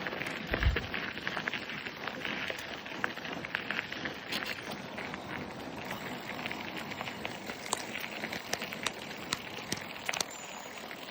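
Bicycle riding along a rough path: tyres crunching with a dense crackle of small clicks and rattles, and a low thump on the microphone about a second in.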